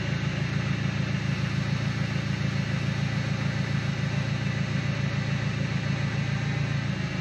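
A motor or engine running steadily at an even speed, with a low hum and a fast, regular pulse.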